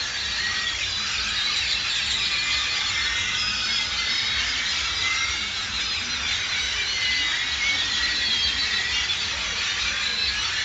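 A large flock of birds chirping and calling all at once, a dense, steady chorus of many short overlapping high notes, with a low rumble underneath.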